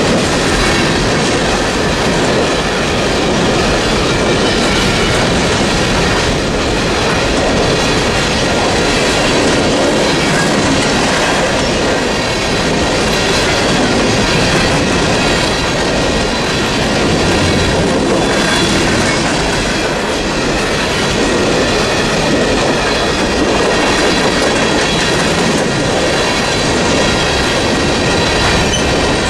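BNSF freight train rolling steadily past the crossing: a loud, continuous rumble of wheels on rail with clacking over the rail joints.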